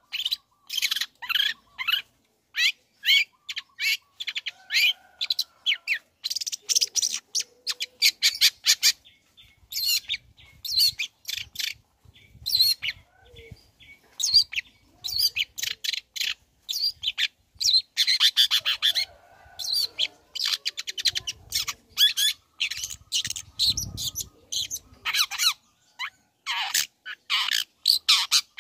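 Long-tailed shrike (cendet) singing: rapid runs of short, high notes in bursts, separated by brief pauses.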